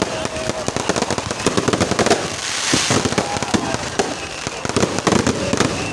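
Fireworks going off in a dense, continuous run of bangs and crackles, with a brief bright hiss of sparks about two and a half seconds in.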